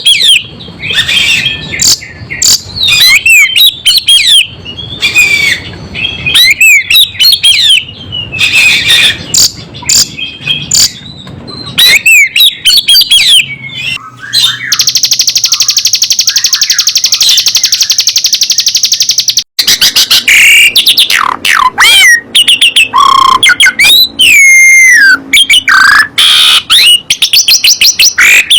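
Songbirds singing loudly in a rapid, varied stream of whistles and chirps that glide up and down. About halfway through, a buzzy trill holds steady for around five seconds.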